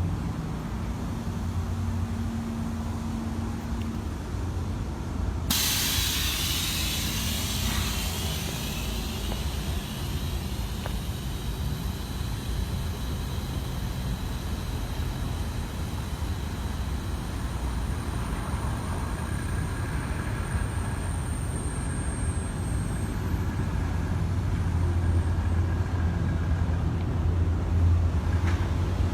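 Semi truck's diesel engine running steadily. About five seconds in, a sudden loud hiss of compressed air venting from the truck's air system fades away over a couple of seconds.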